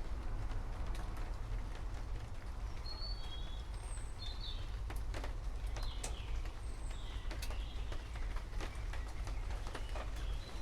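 Birds chirping in short, scattered calls over steady rain, with sharp drip taps and a low continuous rumble underneath.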